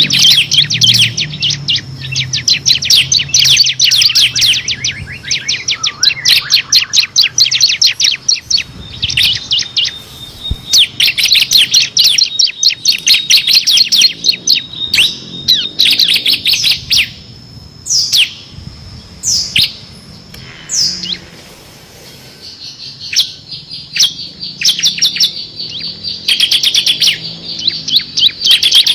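Ciblek kristal (bar-winged prinia type) singing in long, very rapid machine-gun-like trills ('ngebren'), high-pitched and dense. A sparser run of single sharp down-sweeping notes comes about two thirds of the way in before the fast trilling resumes.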